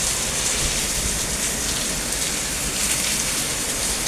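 Heavy hurricane rain pouring steadily in a dense, even hiss, with a low rumble underneath.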